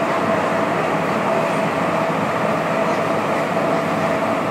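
MTR M-Train metro car running between stations, heard inside the car: a steady rumble of wheels and running gear with a constant whine held at one pitch.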